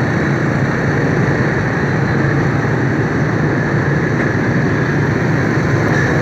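Steady rush of wind and road noise with a motorbike engine running underneath, heard from the rider's seat while riding through city traffic.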